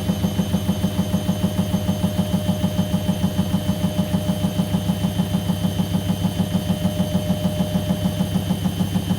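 Whirlpool washing machine spinning its drum at a steady speed, most likely the delicate cycle's 400 rpm spin. A low hum pulses about six times a second under a steady motor whine.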